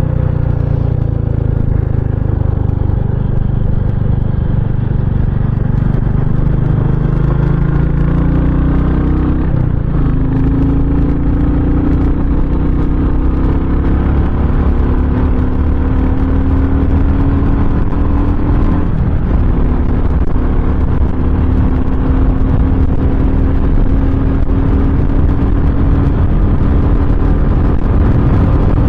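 A GT650 motorcycle's twin-cylinder engine running under way. Its note sags at first, then dips briefly twice, about ten seconds apart, and climbs slowly after each dip, as with upshifts while accelerating.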